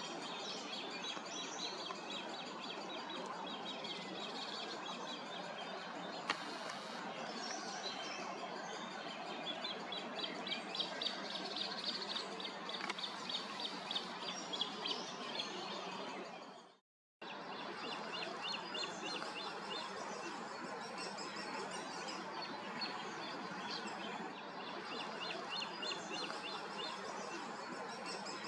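Small birds singing and chirping, with quick trills of rapid repeated notes, over a steady background hiss. The sound drops out completely for a moment about seventeen seconds in, then picks up again.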